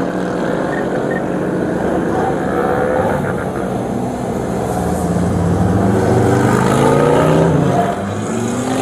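Several dirt bike and ATV engines running and revving at once, their pitch rising and falling, loudest about two-thirds of the way through.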